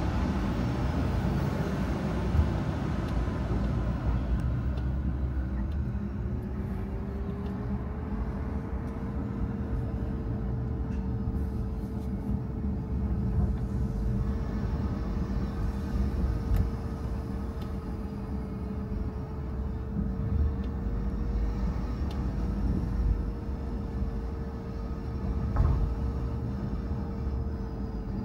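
Car driving with a steady low engine and road rumble. A whine dips in pitch a few seconds in, rises again and then holds steady, following the engine and road speed.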